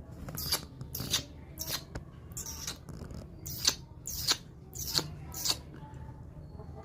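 Alexandrine parakeets giving a series of about eight short, harsh screeching calls, roughly one every half second to a second.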